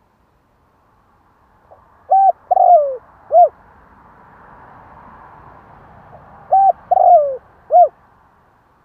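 Spotted dove cooing: two phrases about four seconds apart. Each is a short coo, a longer coo falling in pitch, and another short coo.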